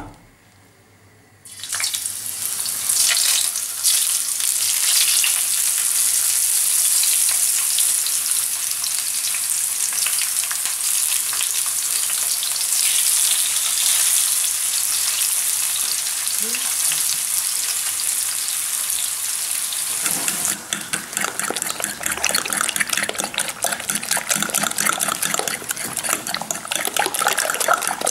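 Courgette slices sizzling as they fry in hot oil in a pan, starting about two seconds in. About two-thirds of the way through this gives way to a fork rapidly beating eggs in a bowl, a fast clatter of strokes.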